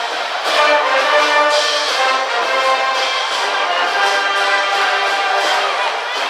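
High-school brass band playing a baseball cheer song in a stadium's stands, with loud held notes moving through a melody.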